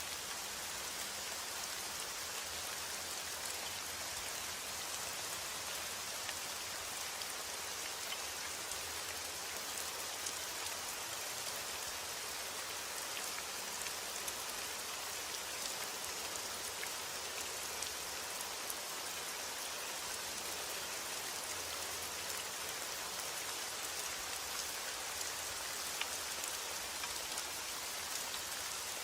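Steady rain falling, with a constant hiss and scattered small drop ticks.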